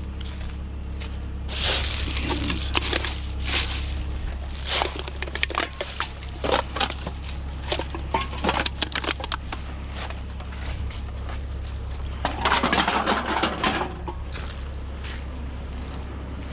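Aluminium cans and loose junk being rummaged through and handled, with repeated sharp clinks, knocks and crinkling. There is a denser stretch of rattling and crunching about three-quarters of the way through.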